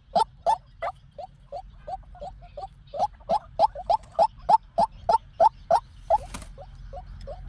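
White-breasted waterhen calling: a rapid, unbroken series of short harsh notes, about three to four a second, some loud and some fainter.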